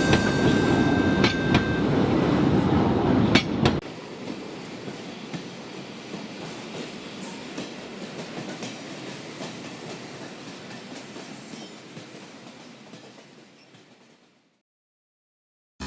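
Train running on the rails: a loud rumble with a few sharp clicks. About four seconds in it drops abruptly to a quieter rumble that fades away to silence.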